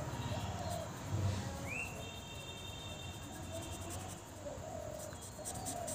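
Birds chirping in the background, one call rising into a held whistle about two seconds in, with the faint scratch of a felt-tip marker colouring on paper.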